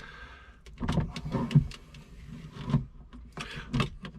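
Plastic parts of a Thetford C200 cassette toilet's flush mechanism being worked into place by hand: a short scrape, then several irregular clicks and knocks of plastic on plastic.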